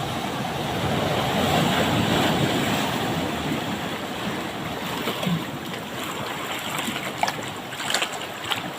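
Ocean surf washing up a beach: a rush of breaking water that swells about a second in and then slowly ebbs, with a few faint clicks near the end.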